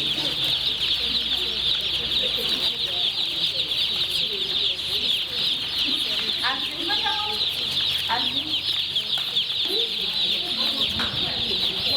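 A large flock of young chicks peeping nonstop: a dense chorus of high, short, falling cheeps.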